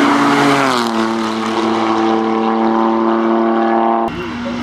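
Hillclimb race car engine at high revs passing by, its note dropping in pitch about a second in, then holding a steady high-revving note. A little after four seconds the sound changes abruptly to another engine.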